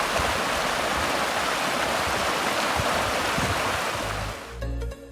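Water rushing steadily along a normally dry creek bed, a constant hiss-like flow. It cuts off abruptly near the end, where background music with a deep bass line begins.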